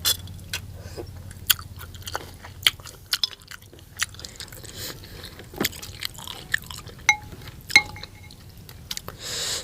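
Close-up chewing with irregular sharp crunches and wet mouth clicks, with a short burst of hissing noise near the end.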